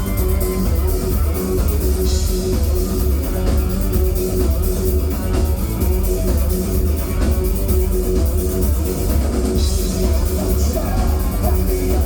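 Live industrial rock band playing loud, with heavy bass, distorted guitar and a steady drum beat, recorded from the audience.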